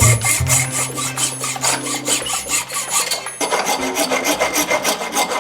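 Hand file scraping in quick, regular strokes, with a brief pause a little past three seconds in.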